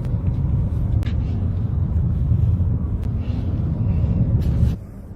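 Heavy, steady low rumble of a vehicle driving, with a few faint clicks, cutting off suddenly near the end.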